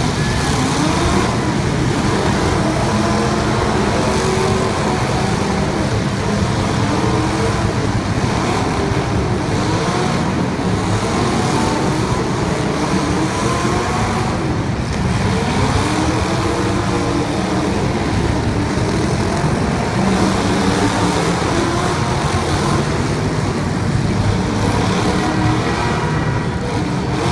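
Several race car engines running hard together, their pitch rising and falling over and over as they accelerate and back off, over a dense continuous rumble.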